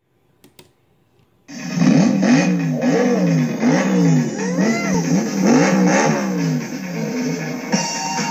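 Animated car engines revving over and over, each rev rising and falling in pitch about every half second. They come in loud about a second and a half in, after a few faint clicks, and a steady high tone joins near the end.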